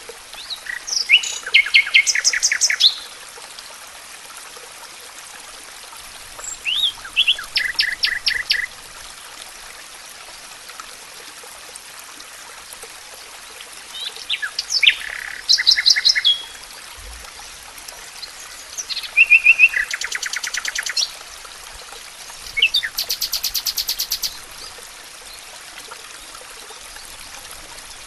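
A songbird singing in about five short phrases of rapid repeated high notes, each lasting two to three seconds with pauses of a few seconds between, over a steady background hiss.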